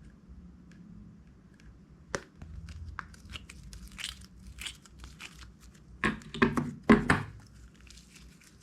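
Plastic and crunchy slime materials being handled, crinkling and crackling. It starts with a sharp snap about two seconds in, then comes as irregular crackles, loudest in a cluster of strokes around six to seven seconds in.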